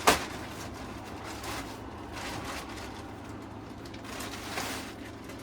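A sharp thump right at the start, then bursts of rustling and swishing as sofa cushions are handled and pushed into their fabric covers.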